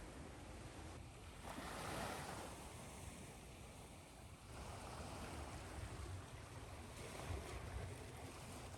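Ocean waves washing in over a steady hiss of white noise, faint and even; a wave swells up about one and a half seconds in and another builds from about five seconds.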